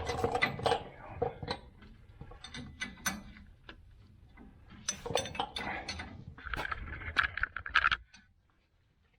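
Hand ratchet wrench clicking in quick runs as a bolt is turned, with clinks of metal tools.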